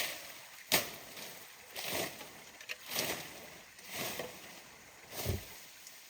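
Repeated strikes, about one a second, like a hand tool hitting hard material during manual work.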